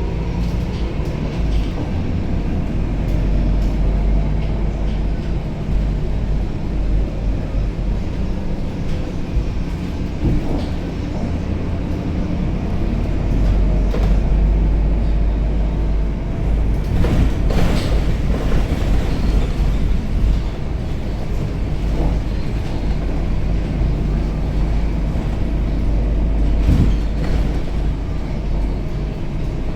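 Scania K270UB city bus running along the road, heard from inside the cabin: a steady heavy low engine and road rumble with a few knocks and rattles, the loudest a little past halfway and near the end. The ZF gearbox whine and radiator fan are not loud.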